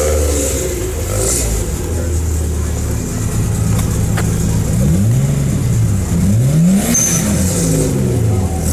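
A vehicle engine idling steadily, then revved up and let back down twice in the second half.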